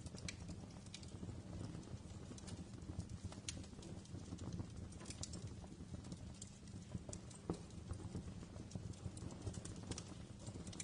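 Wood fire in a fireplace crackling: irregular sharp pops and snaps, a few a second, over the low steady rumble of the flames.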